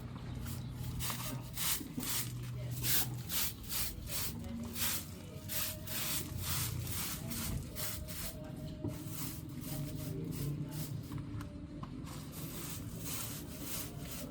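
A long series of short scratchy rubbing or scraping strokes, about two to three a second, fading out near the end.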